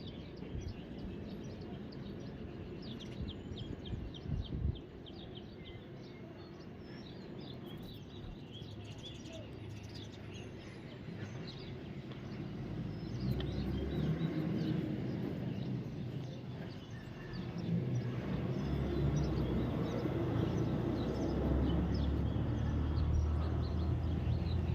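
Birds chirping in short, scattered calls over steady outdoor background noise, with a low rumble building from about halfway through.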